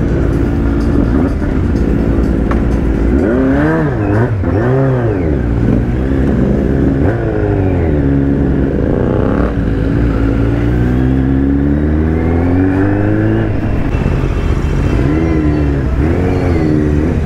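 Kawasaki Z900's inline-four engine through an Arrow aftermarket exhaust with its dB killer still fitted, heard from the rider's seat. It revs up and down in short throttle blips, pulls up in one long rising run about ten seconds in, then blips twice more near the end.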